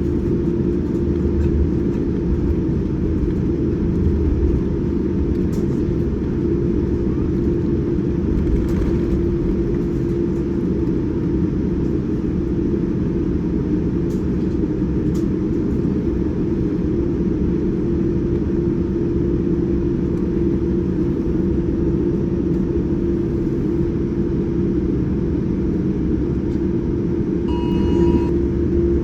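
Steady low rumble inside the cabin of a Boeing 787-9 on the ground with its engines running, under a steady hum. A short tone sounds near the end.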